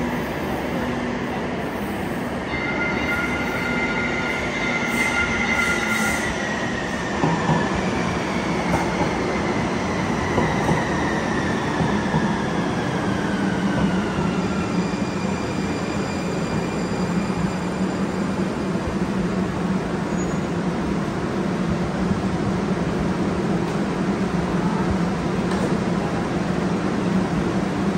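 TriMet MAX light-rail train pulling into an underground station: a few seconds of high steady whining tones, then a whine that falls in pitch as the train slows. After that a steady low hum continues while it stands at the platform.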